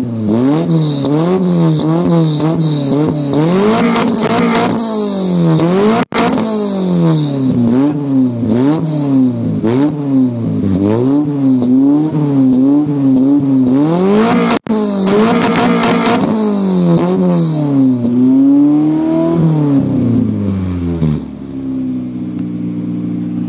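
Honda Civic's B16A 1.6-litre DOHC VTEC four-cylinder, breathing through a side-dump exhaust, revved up and down over and over in quick throttle blips, then dropping back to a steady idle near the end. The sound cuts out for an instant twice.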